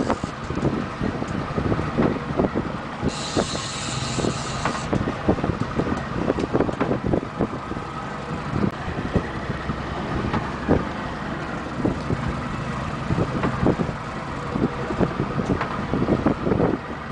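A boat's engine running steadily underway, with the hull knocking irregularly against choppy water and wind buffeting the microphone. A brief hiss comes in about three seconds in and lasts about two seconds.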